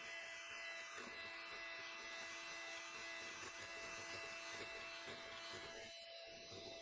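Faint, steady electric hum with a few fixed tones over a light hiss, like a small motor running.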